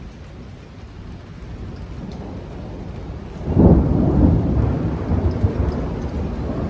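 Thunderstorm: steady rain, then about three and a half seconds in a loud clap of thunder breaks into a deep rolling rumble that slowly dies away.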